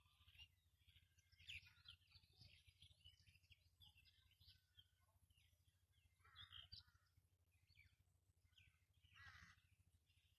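Faint outdoor birdsong: many short chirps from several birds, with two louder, harsher calls about six and a half and nine seconds in, over a faint low rumble.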